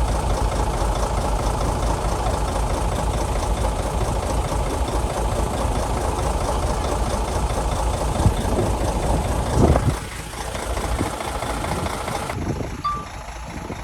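Shantui bulldozer's diesel engine running steadily, with two sharp clanks near the end, after which the engine noise drops quieter.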